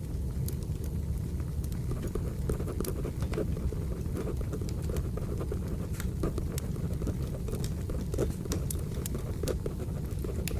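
Burning firewood crackling, with irregular sharp pops over a steady low rumble of the fire, and a pencil scratching on paper mixed in.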